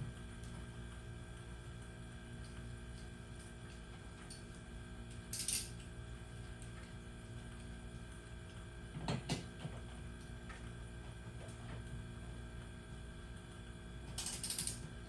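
Scattered mechanical clicks and rattles, with three short louder clatters, over a steady low hum.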